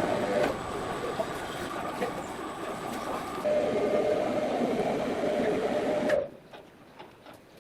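Sawmill machinery running with a steady rumble and a whine, which stops abruptly about six seconds in, leaving only faint clicks.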